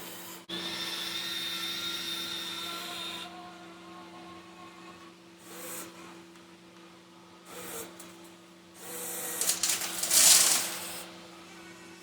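Small electric motors of a 1:14-scale RC excavator whining as it works, over a steady low hum. Near the end comes a louder rush of scraping noise as rock is loaded into the RC dump truck.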